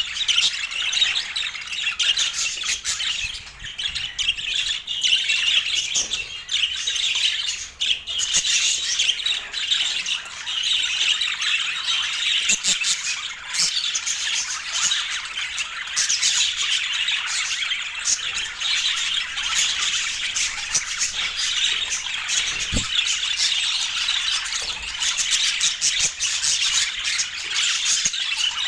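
Budgerigars chattering continuously: a dense run of fast, high-pitched warbles and short sharp calls.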